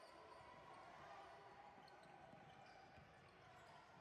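Faint sound of a basketball game in a gym: a ball bouncing on the court over steady background noise.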